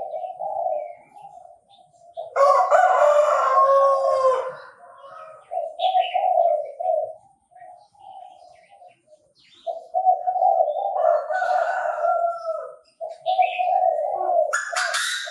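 Chinese francolin (đa đa) calling: a series of loud, repeated call phrases with short pauses between them.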